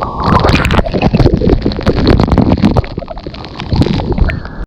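Loud rush of a waterfall close up, with wind and spray buffeting the microphone in uneven gusts and many sharp crackles and knocks on it.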